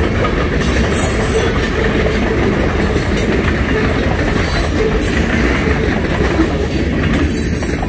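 Freight train of covered hopper cars rolling past close by: a steady rumble of steel wheels on the rails, with sharper clacks and rattles about every second.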